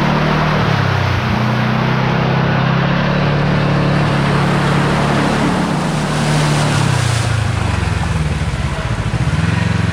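Side-by-side UTV engine running under steady throttle, with wind and tyre noise over it; the engine note drops about seven seconds in and climbs again near the end.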